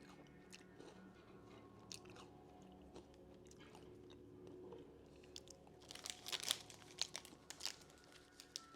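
Close-up chewing of a crunchy chocolate-banana Pocky biscuit stick, faint at first, then a burst of loud, crisp crunching about six seconds in.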